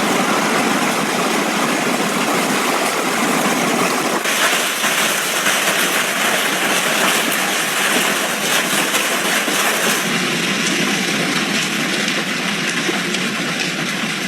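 Heavy thunderstorm rain pouring down: a loud, steady, dense hiss of pattering drops that grows brighter about four seconds in.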